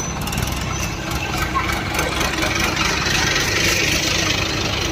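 Diesel tractor engine running steadily, growing a little louder about halfway through.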